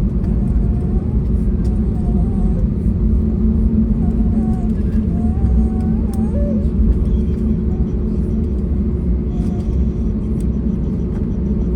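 Steady low rumble inside the cabin of an Airbus A321neo airliner, with faint voices in the background.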